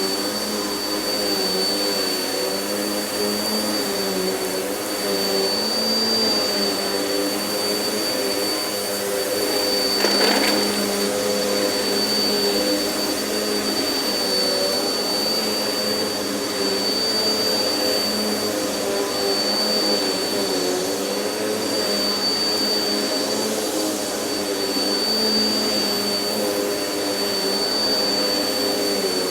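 Vacuum cleaner running steadily while vacuuming a floor, its motor drone wavering slightly in pitch as it is pushed and pulled, with a constant high whine. A brief knock about ten seconds in.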